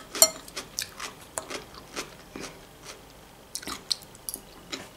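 Close-miked chewing of crisp fresh cucumber salad: a run of short, wet crunches, two or three a second, with a pause near the middle. Right at the start a metal fork clinks once on the glass salad bowl.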